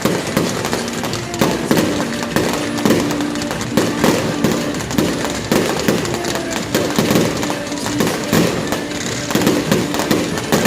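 Fireworks display going off in a steady barrage: booms and crackles following one another in quick succession.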